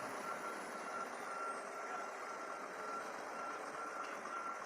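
Truck reversing alarm beeping in a steady, even rhythm over a constant background hiss.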